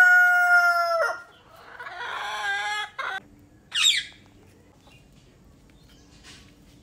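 Bird calls: a long, held call that ends about a second in, a second call about two seconds in, then a short, shrill falling screech near four seconds.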